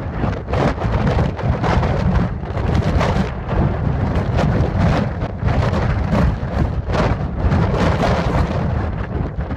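Thunderstorm: heavy rain with a constant deep rumble, loud throughout, with many short gusty surges in the hiss.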